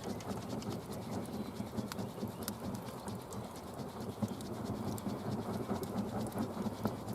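Campfire crackling, with frequent small irregular pops and snaps over a low rustle.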